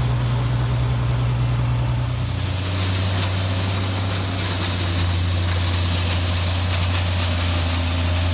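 Farmall 560 tractor engine running steadily while driving a feed grinder's unloading auger to auger off ground feed. About two and a half seconds in, the engine note drops to a lower pitch and holds there.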